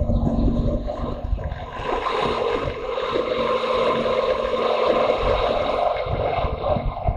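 Motorcycle engine running steadily on the move, with wind rushing and buffeting over the microphone; the low wind buffeting eases about two seconds in.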